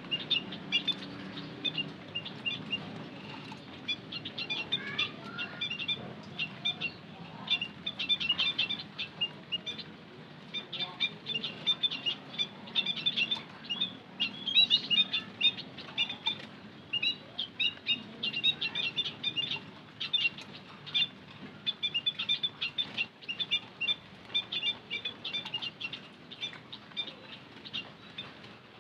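White-headed munias chirping: a dense, continuous stream of short, high chirps, played as a lure call to attract wild munias.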